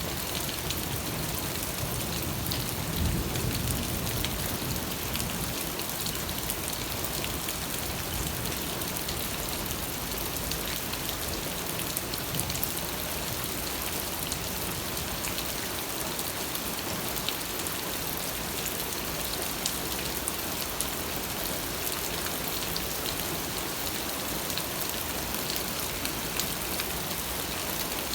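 Steady rain falling, with many fine drop ticks on surfaces and a slight low swell about three seconds in.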